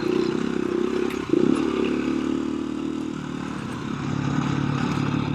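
KTM 350 EXC-f dirt bike's single-cylinder four-stroke engine running at low revs, with a short blip of throttle about a second in.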